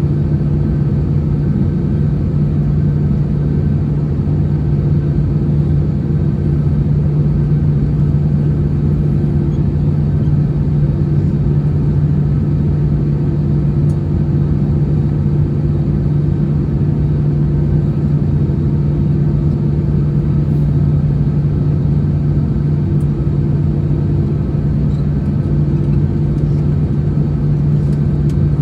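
Steady cabin noise of an Airbus A321-211 with CFM56 engines: an even engine hum with a low rumble of airflow, unchanging throughout.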